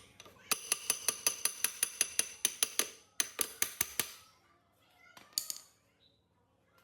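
Rapid metallic tapping, about six sharp strikes a second, each ringing with the same high tones. It runs for about three and a half seconds with a brief break near three seconds, then two or three last taps about five seconds in.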